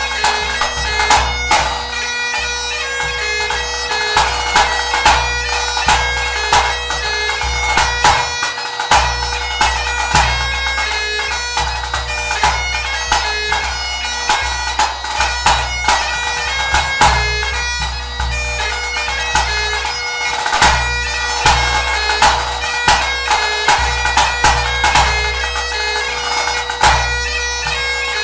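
Great Highland bagpipe playing a tune over its steady drones, accompanied by a pipe band bass drum struck in a steady beat.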